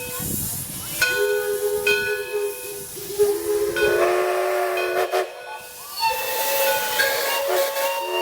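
Steam whistle blowing: two short toots, then longer notes at several pitches that overlap and shift, with a hiss of steam.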